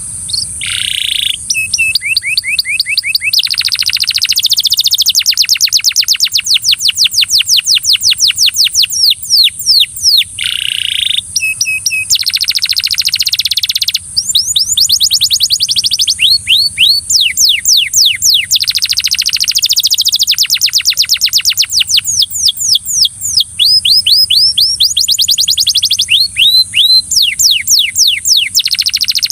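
Belgian canary singing: phrases of fast trills, each a run of quick repeated high notes, some faster and some slower, with short breaks between phrases.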